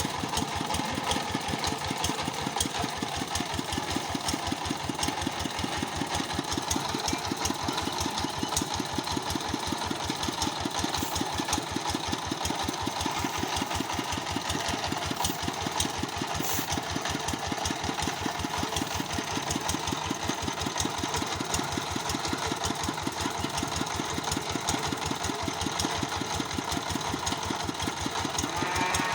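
Engine of a homemade mobile circular-saw rig running steadily, with a rapid, even beat of firing pulses.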